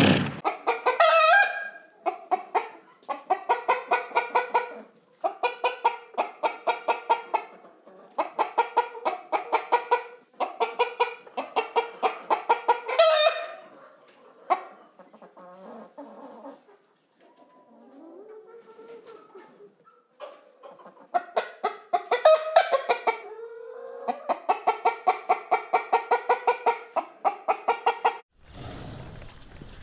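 Chickens clucking and cackling in rapid runs of repeated notes, several runs in a row with short pauses between, and a few longer drawn-out calls among them. The sound breaks off shortly before the end.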